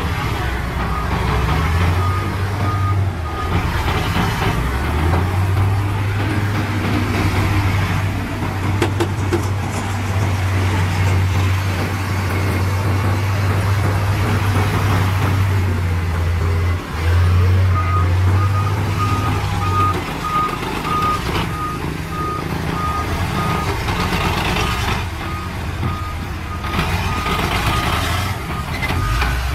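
Heavy diesel machinery engine running steadily, with a reversing alarm sounding an even series of beeps briefly about two seconds in and again from about eighteen seconds on.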